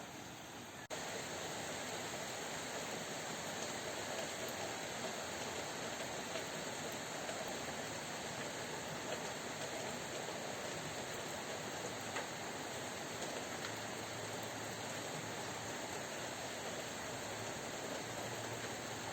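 Heavy rain pouring steadily, a dense even hiss; about a second in it suddenly gets louder.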